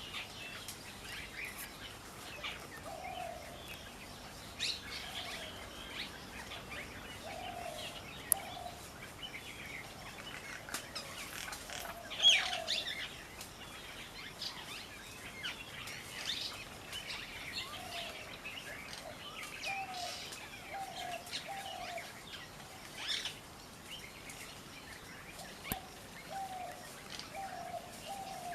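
Birds chirping and calling: many short high chirps, with a lower call repeated in groups of two or three.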